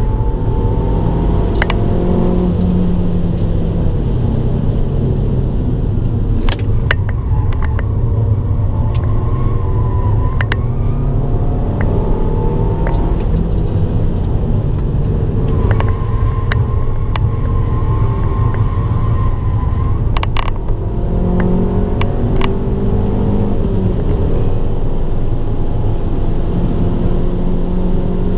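Abarth 595 Turismo's turbocharged 1.4-litre four-cylinder under hard acceleration on track, its pitch climbing through each gear and dropping back at the shifts, over a steady low rumble. Sharp clicks sound here and there.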